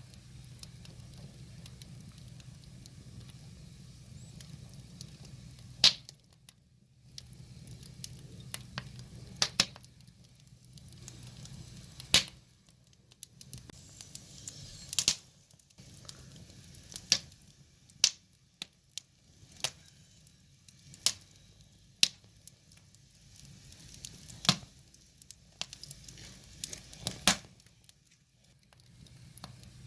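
Wood fire burning, with sharp crackles and pops from the burning logs every second or so over a low steady hiss.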